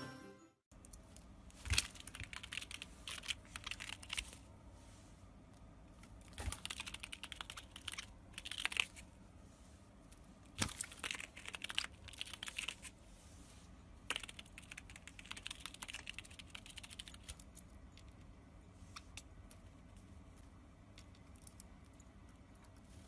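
A parrot crunching and tearing at something with its beak: quick crackling clicks in about four bursts of two to three seconds each, with scattered single ticks between them and after.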